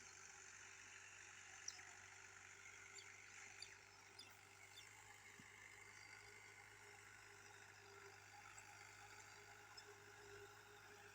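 Near silence: a faint steady hum with a few faint scattered ticks.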